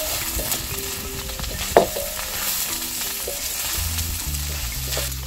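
Omena (small fish) with onions and green capsicum sizzling in a metal wok over a wood fire, stirred with a spatula that scrapes and knocks against the pan now and then, one knock sharper about two seconds in.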